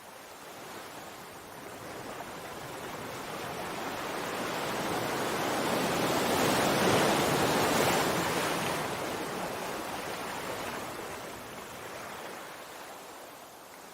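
Sea waves: one wave swells slowly, breaks in a hiss of surf about seven seconds in, then washes back and fades.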